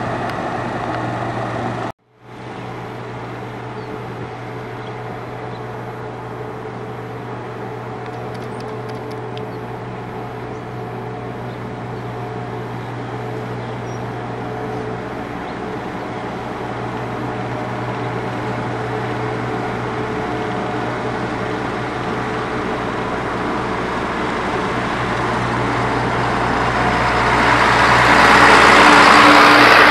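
Heavy road-construction machinery running, a steady diesel engine hum. The sound cuts out abruptly for a moment about two seconds in, then resumes and grows louder and harsher near the end.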